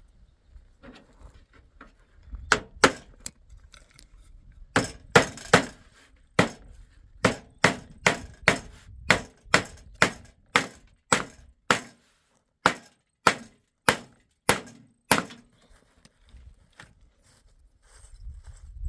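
Hammer driving nails into a wooden door: a few scattered blows, then a steady run of about twenty sharp, ringing strikes at roughly two a second before they stop.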